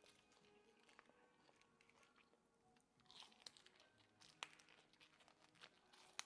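Faint crunchy chewing of food close to the microphone, with the crunches coming thicker from about halfway through.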